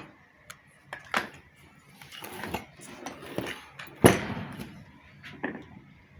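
Metal pump parts and tools being handled and set down on a workbench: a few separate knocks and clinks with some scraping, the loudest knock about four seconds in.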